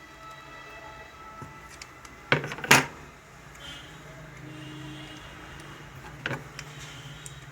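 Sharp knocks and clatter of metal sewing-machine parts being handled during disassembly: two loud ones close together about two and a half seconds in, and a lighter one near the end.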